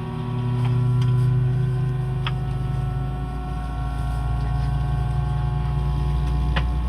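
Steady cabin noise inside an Airbus A319 on the ground before takeoff: a low hum with several steady whining tones over it, swelling slightly about a second in, and two faint clicks.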